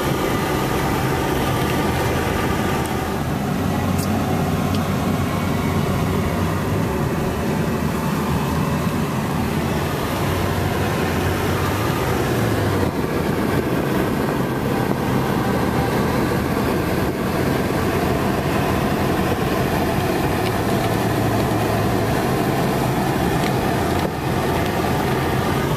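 Car engine and tyre noise heard from inside the cabin while driving, a steady drone.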